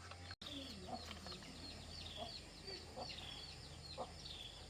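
Birds chirping over and over in short, high, hooked notes, with a few faint knocks. The sound cuts out briefly just after the start.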